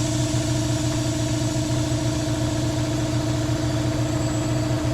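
A machine running steadily: an even motor hum with a steady hiss over it, unchanging throughout.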